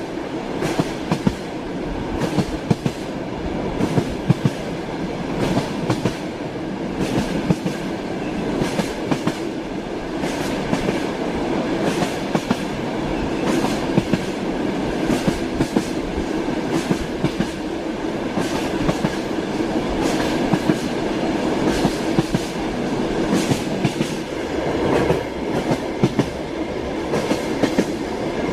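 Railway carriage in motion: a steady rumble of wheels on rails, with frequent sharp clicks as the wheels pass over rail joints.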